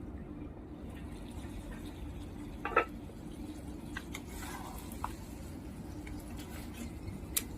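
Low steady background hum with a few scattered light clicks and one brief ringing clink a little under three seconds in.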